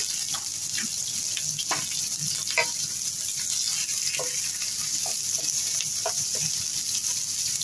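Sliced onions and garlic sizzling in hot oil in a nonstick pan as they are sautéed, a steady hiss with scattered small pops and crackles, stirred with a wooden spatula.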